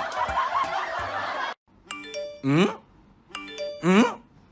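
Laughter over background music, cut off abruptly about one and a half seconds in. Then a doorbell-like electronic chime with a sliding tone repeats about every one and a half seconds.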